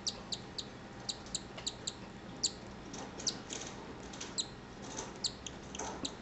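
Cockatiel chick's food-begging cheeps: a fast run of short, high peeps, about three to four a second, with a few brief pauses.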